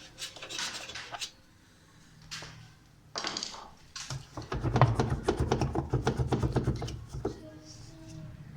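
Metal clicking, clattering and scraping of tools and parts on a washing machine gearbox while its bolts are taken out: a quick run of clicks at the start, then a denser, longer stretch of rattling in the second half.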